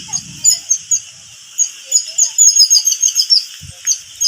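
Many small birds chirping together: a dense, continuous run of short, high chirps over a steady hiss.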